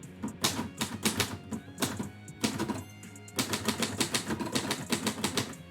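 Typewriter keys striking in quick runs of keystrokes, with two short pauses partway through, over background music.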